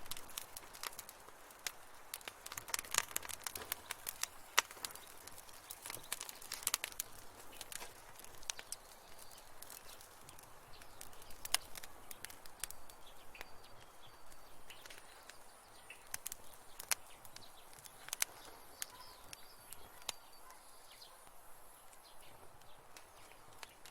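Wood fire crackling in a fireplace: sharp pops and snaps over a soft hiss, thickest in the first several seconds and then more scattered. A faint high whistle runs through the second half.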